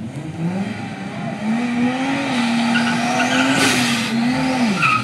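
2JZ-swapped Scion xB's straight-six engine revving up and holding high revs in a burnout, its tires spinning and squealing; the revs drop near the end.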